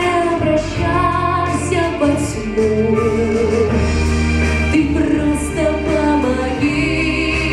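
Pop song: a girl's voice singing held, gliding notes over a backing track with a steady bass.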